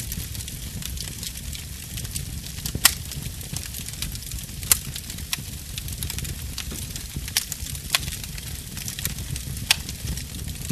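Wood fire crackling and hissing over a low steady rumble, with several sharp louder pops from the burning wood.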